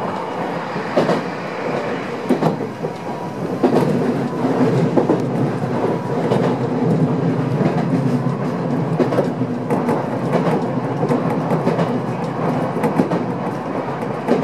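Odakyu 1000 series electric train running at speed, heard from inside the front car: a steady rumble of wheels on rail with scattered clicks over rail joints.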